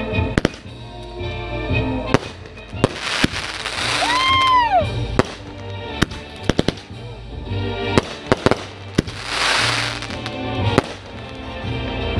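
Fireworks display: a rapid string of sharp shell bangs and crackling bursts, with one whistling shell about four seconds in that rises and then falls in pitch. Music plays underneath.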